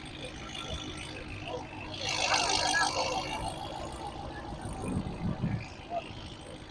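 Cars driving past at low speed, with engine and exhaust sound swelling loudest about two seconds in and a low rumble near the end, over background chatter.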